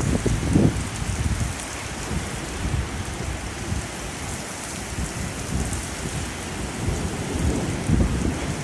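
Heavy rain pouring steadily in a severe thunderstorm, with low rumbling swells about a second in and again near the end.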